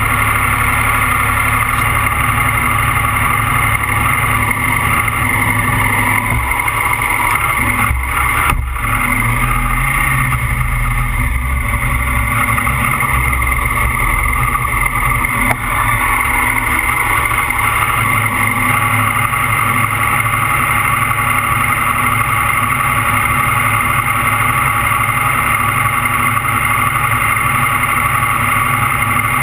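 Car engine running steadily, heard from a camera mounted on the car, a constant drone without any clear revving.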